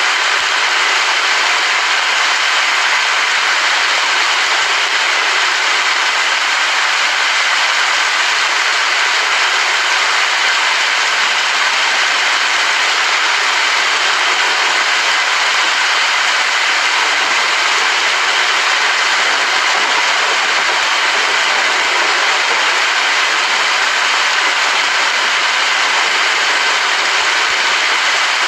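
Rain falling steadily: a dense, even hiss with no separate drops or thunder standing out.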